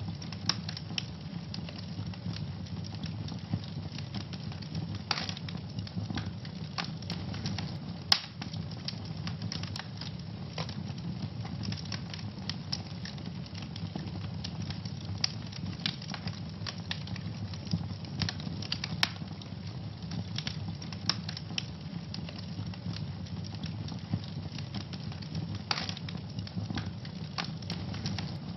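Wood fire burning in a fireplace: a steady low rumble under frequent sharp crackles and pops, the loudest pop about eight seconds in.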